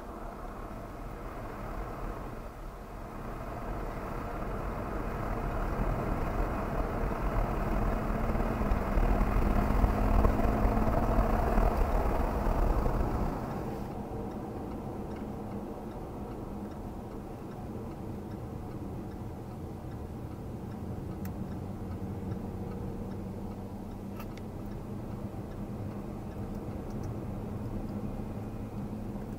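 In-cabin sound of a Jaguar XE S's supercharged 3.0-litre V6 on track: the engine pulls hard under loud road and wind noise, its note rising, then about 13 seconds in it drops off suddenly to a quieter, steady part-throttle hum.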